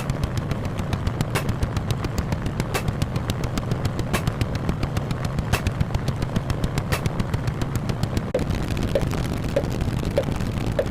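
Rapid, evenly repeated bangs like a machine gun firing, over a steady low rumble. About eight seconds in it cuts to a different steady rumble with faint short chirps repeating under twice a second.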